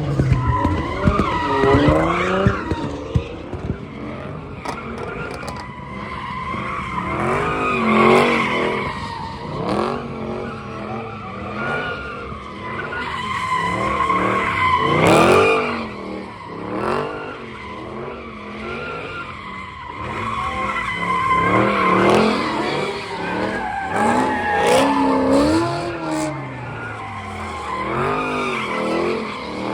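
Car tyres squealing as cars drift and spin at a car meet, with engines revving up and down at high revs. The squeal and revving wave up and down and swell louder several times.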